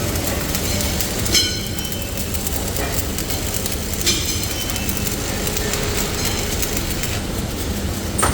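Heavy factory machinery running with a steady low rumble, with three sharp metal clanks that ring briefly, about a second and a half in, about four seconds in, and near the end.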